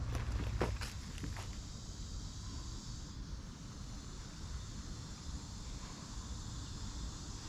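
Forest ambience: a steady high hiss of insects over a low rumble of distant city traffic, with a few footsteps on the trail in the first second and a half.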